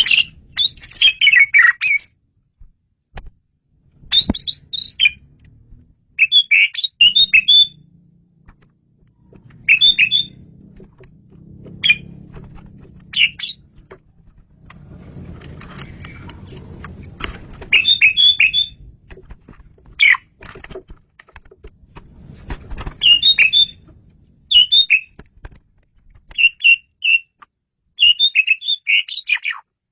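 Male Asian pied starling singing: bursts of clear, loud whistles and chattering chirps, a new phrase every one to three seconds with short pauses between.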